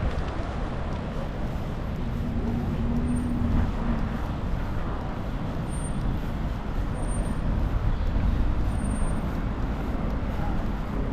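Road traffic on a city street: a steady rumble of passing vehicles, with a faint held engine tone about two seconds in.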